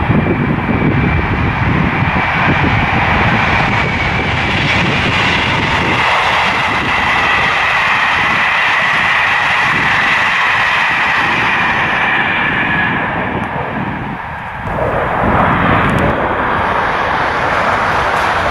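A train running past at speed: a steady rush of wheel and air noise with a faint whine that slowly falls in pitch. The noise dips briefly about fourteen seconds in, then comes back just as loud.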